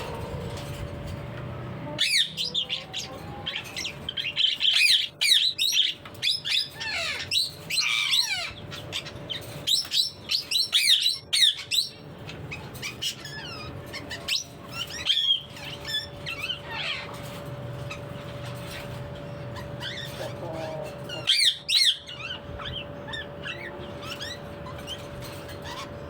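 Alexandrine parakeet chirping and squawking in rapid runs of sliding high calls, busiest through the first half and again briefly near the end, over a steady faint hum.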